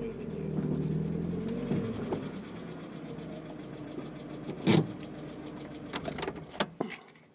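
Car engine running and then idling as the car comes to a stop. There is one loud clunk about halfway through, then a few sharp clicks, and the engine cuts off just before the end.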